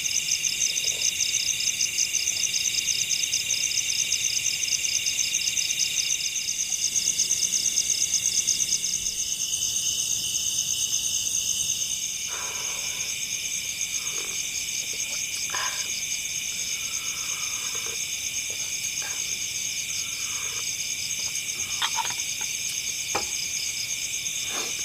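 Night chorus of crickets and other insects: a dense, fast-pulsing high trill that keeps going without a break. About halfway it gets a little quieter, and scattered short knocks and clicks join it.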